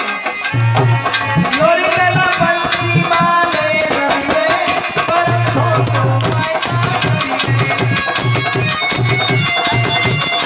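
Indian folk-style devotional music: a drum beat with fast, dense high percussion, and a melody line playing over it.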